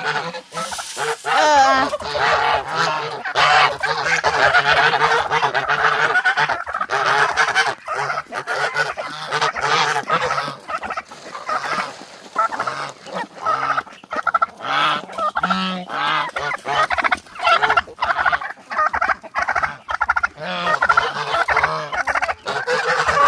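A backyard flock of turkeys and other poultry calling over one another without pause, excited at feeding time.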